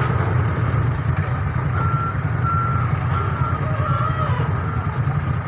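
Vehicle reversing alarm beeping about five times at an even pace, starting about two seconds in, over the steady low running of an engine.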